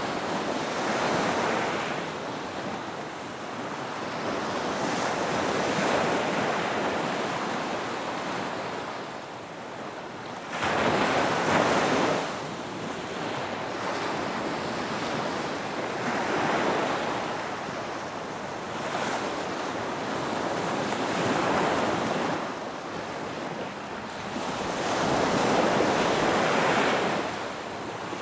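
Ocean waves breaking on a beach, one after another, the wash swelling and fading every few seconds. The loudest wave breaks suddenly about ten seconds in.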